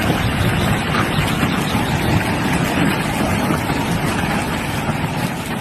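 Storm wind and heavy rain: a loud, dense, steady rush of noise with no distinct strokes, easing slightly near the end.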